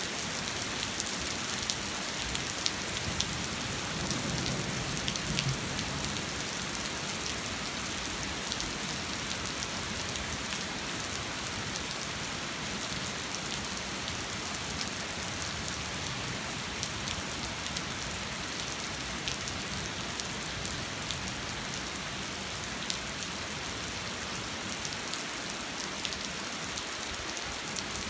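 Steady rain pattering on a hard surface, a dense even hiss with individual drops ticking through it.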